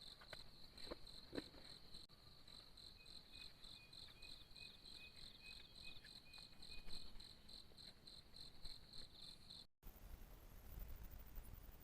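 Faint insects chirping in a steady, rapid pulsed trill, with a second, fainter chirping series in the middle and a few soft clicks in the first couple of seconds. It cuts off abruptly near the end.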